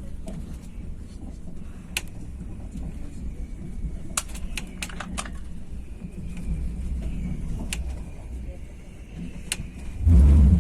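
Train running: a steady low rumble with scattered sharp clicks and rattles, and a short, heavy low thump near the end.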